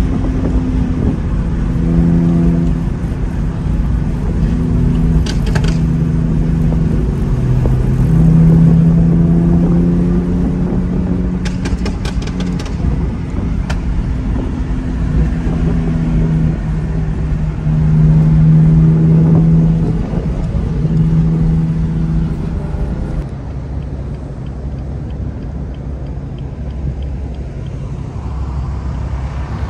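Car engine and exhaust under way: a steady drone that shifts pitch in steps as the revs rise and fall, loudest about eight and eighteen seconds in. It drops to a quieter, lower note after about twenty-three seconds.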